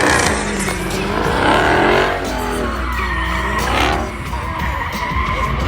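A car doing a burnout: the engine revs up and down several times over the steady hiss of spinning, squealing tyres.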